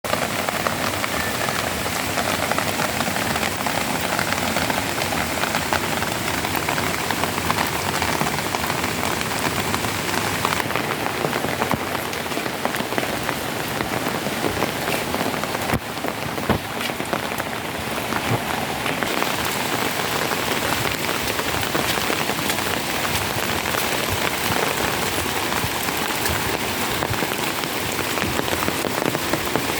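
Steady rain falling: an even hiss made of a dense patter of individual drops.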